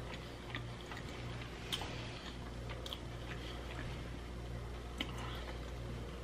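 A person chewing a soft mouthful of creamy macaroni and cheese with the mouth closed, close to the microphone. The chewing gives faint, scattered wet mouth clicks over a low, steady hum.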